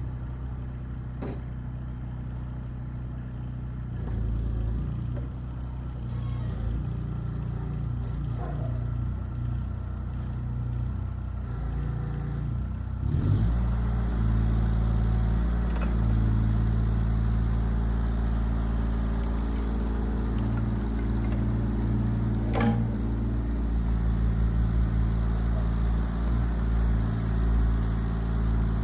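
Yanmar ViO17 mini excavator's small three-cylinder diesel running steadily, with a few light knocks. About halfway through, the engine speed rises and it runs louder and higher from then on.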